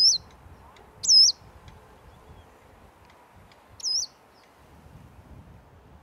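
A small bird gives three loud, high chirps: two about a second apart, then a third about four seconds in, each with a quick dip and rise in pitch.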